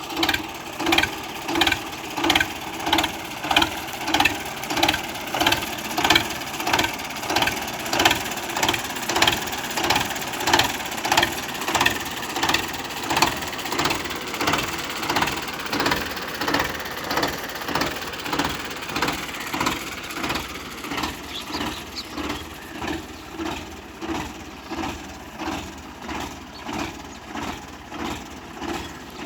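Belarus 80.1 tractor's diesel engine running, with a regular pulsing beat about twice a second that eases off and grows quieter over the last third.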